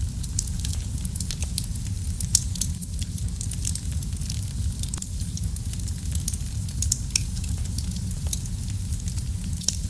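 Wood fire burning in a fireplace: a steady low rumble of the flames with frequent sharp crackles and pops, one louder pop about two and a half seconds in.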